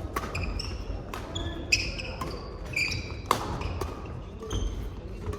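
Badminton doubles rally on an indoor court: sharp racket strikes on the shuttlecock, several of them, mixed with short high squeaks of court shoes on the floor.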